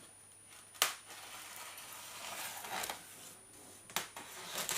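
Packaging being handled and rummaged through during unboxing: scratchy rustling with a sharp knock about a second in and another near the end.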